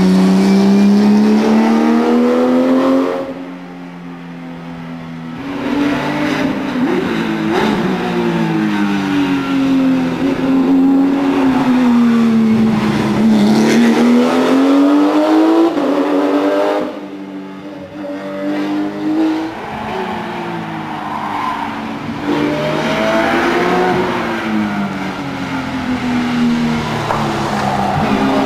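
Porsche 997 GT3 Cup race car's flat-six engine at high revs, its pitch climbing under acceleration and dropping back on the downshifts several times over. The sound fades twice for a couple of seconds as the car moves farther off.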